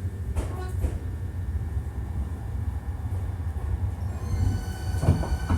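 Hankyu 1300 series electric train running slowly into the terminal, heard from inside the car: a steady low rumble with a few sharp clunks of the wheels over rail joints and points. A high whine of steady tones from the traction drive sets in about four seconds in.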